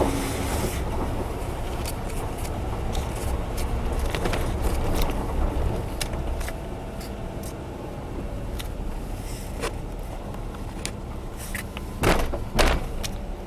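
Honda Zest Spark kei car's 660 cc three-cylinder engine and road noise heard from inside the cabin while driving, with scattered light clicks and rattles and two louder knocks about twelve seconds in.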